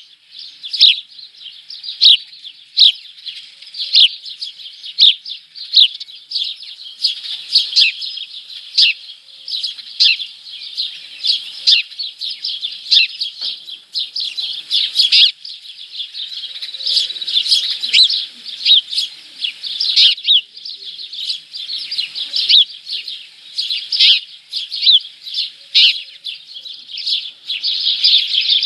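Small birds chirping and twittering nonstop. Sharp, loud chirps come about once a second over a steady background chatter of many calls.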